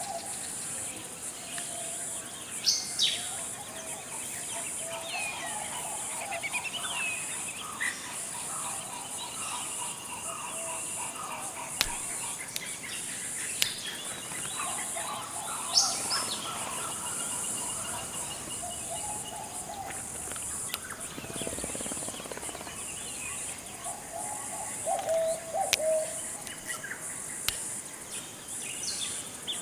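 Forest ambience: several birds calling at intervals, with sharp whistled notes and lower warbling calls, over a steady high-pitched insect drone.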